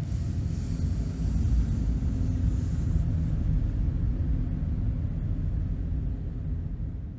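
Low, steady rumbling noise, heaviest in the bass, that fades away near the end.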